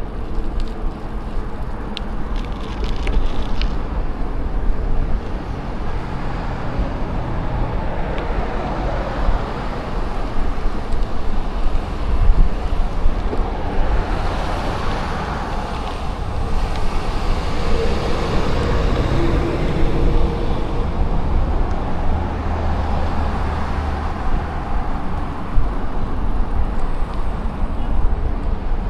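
Wind rumbling on the microphone while cycling along a road, over steady traffic noise; a vehicle passes about halfway through, its tyre noise swelling and fading.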